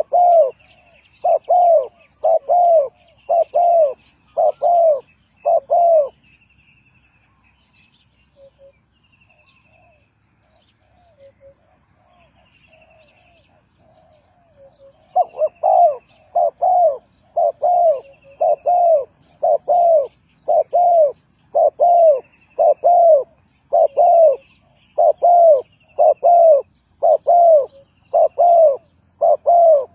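Spotted dove cooing: a run of loud, evenly spaced low coos, a pause of about nine seconds, then the cooing starts again at a steady pace. Faint high chirps from another small bird sound throughout.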